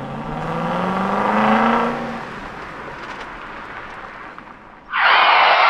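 Intro sound effect of a car engine revving, its pitch rising over the first two seconds and then falling away. About five seconds in comes a sudden loud burst of harsh noise.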